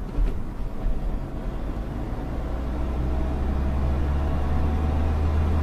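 Hyundai car's engine and road noise heard from inside the cabin while it accelerates in second gear, a low steady rumble that grows gradually louder as the car picks up speed.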